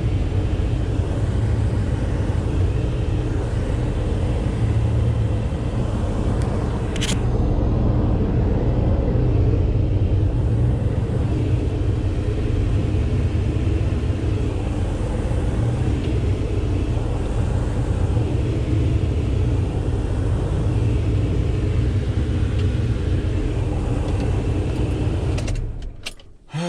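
Truck driving: a steady low rumble of engine and road noise, with one brief sharp click about seven seconds in. The rumble drops away near the end.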